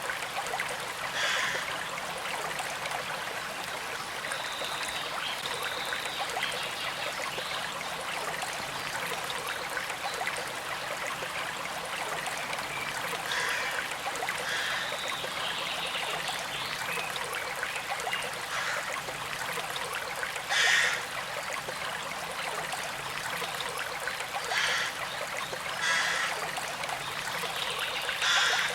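A small creek flowing steadily with a trickling rush. A few brief louder splashes or gurgles rise out of it at scattered moments, the strongest about two-thirds of the way through and another near the end.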